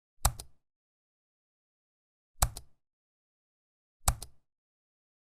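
Three sharp double clicks, about two seconds apart, each a louder click followed at once by a softer one, in otherwise dead silence.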